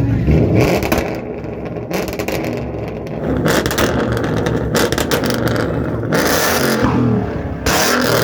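Car engines revving and running, heard in a string of short clips that change abruptly every second or so, with a rising and falling rev about three-quarters of the way through.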